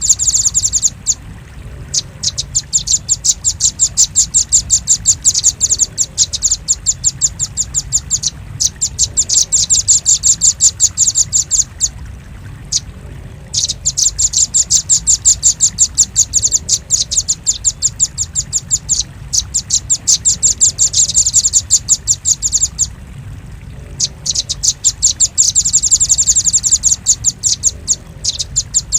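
Velvet-fronted nuthatch (rambatan paruh merah) calling: a rapid string of sharp high-pitched chips, several a second, in runs of a few seconds broken by short pauses. It is a lure call meant to draw in wild nuthatches.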